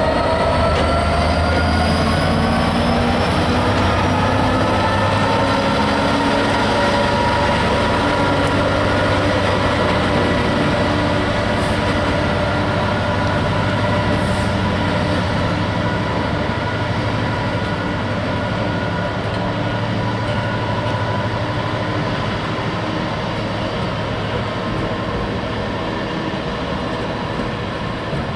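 Class 66 diesel freight locomotive, its two-stroke EMD V12 engine running under power as it moves away, with a whine that falls gently in pitch, then a long rake of container flat wagons rolling steadily past on the rails.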